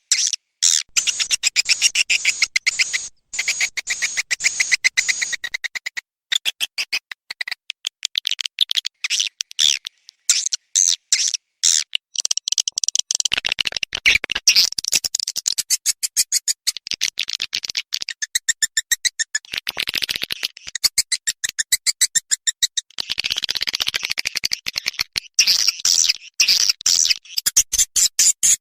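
Swiftlet lure call played back: rapid, high-pitched chirping twitter in dense pulse trains, repeating without pause. This kind of call track is played to attract swiftlets to nest in a swiftlet house.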